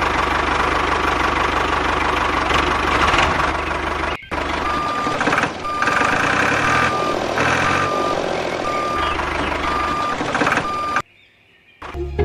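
A vehicle engine running steadily. After a brief break about four seconds in, a reversing alarm beeps evenly, about one beep every two-thirds of a second, over the engine, and then the sound cuts off suddenly near the end.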